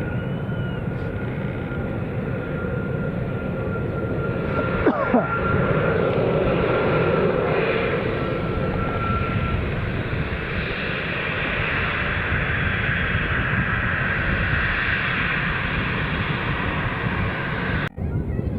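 Jet airliner landing, its engines a steady rushing noise with a thin whine that fades about halfway through; the rushing grows fuller in the second half.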